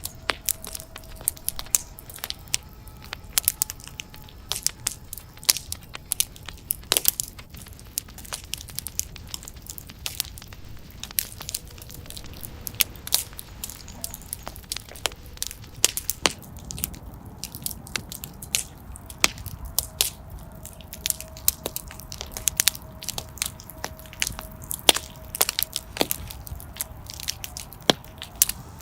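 Wood fire in a fireplace crackling, with frequent irregular sharp pops and snaps over a low, steady rush of flame.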